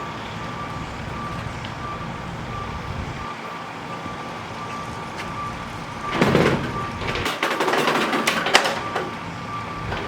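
Clattering and knocking of vintage sewing machines and their metal parts being handled and moved, loudest from about six to nine seconds in. Under it runs a steady low rumble and a thin, continuous high beeping tone like a reversing alarm.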